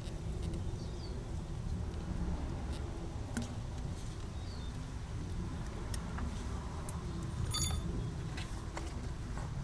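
Light metallic clicks and taps of hand tools and engine parts being handled, with one ringing metal clink about seven and a half seconds in, over a steady low rumble.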